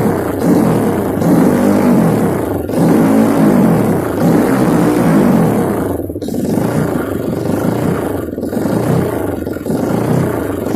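Single-cylinder trail motorcycle engine running through an Over Racing aftermarket exhaust. It revs up and down over and over, and the throttle closes briefly a few times.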